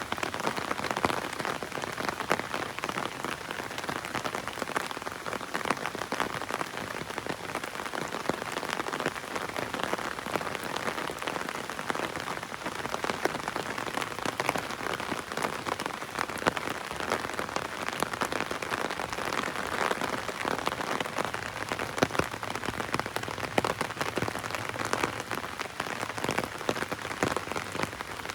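Heavy rain falling on an umbrella overhead: a steady, dense patter of individual drops striking the canopy.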